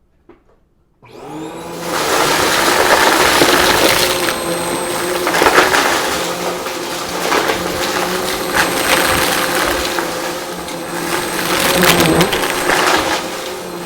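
A vacuum cleaner switched on about a second in, its motor spinning up and then running steadily with a high whine. The suction noise swells and dips as it is pushed over the floor, with crackling of crunchy debris being sucked up.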